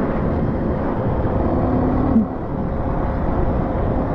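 Trail motorcycle's engine running steadily while riding, with wind rushing over the helmet microphone.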